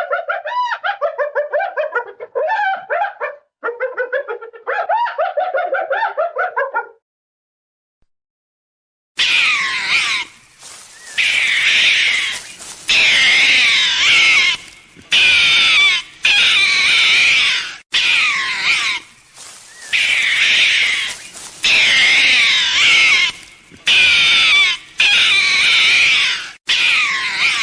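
Animal calls. First comes about seven seconds of quick, wavering pitched calls in rapid pulses. After a short pause, a different animal gives a run of loud, harsh, wavering cries about a second long each, repeated with short breaks.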